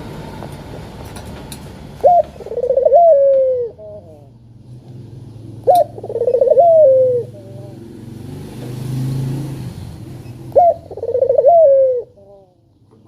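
Puter turtle dove cooing three times, each call a short upswept note that runs into a rolling coo and glides down at the end. A low steady hum sits underneath.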